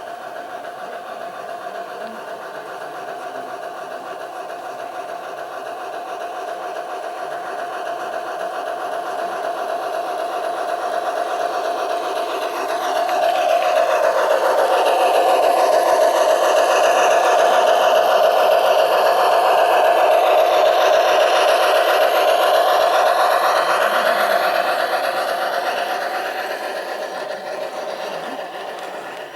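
Model garden-railway train running on the track, its wheels and drive rattling steadily, growing louder as it approaches, loudest about halfway through as it passes close, then fading away.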